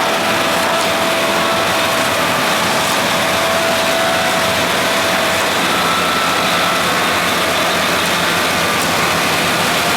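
Vohl snow blower running steadily: a loud, even rush of machine noise with a faint steady whine, no change in pitch or level.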